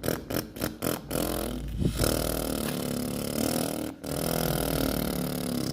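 Sand scooped up with a small hand-held container, scraping and clattering for about a second. It is then poured into a toy dump truck's bed as a steady hiss, with a short break about four seconds in.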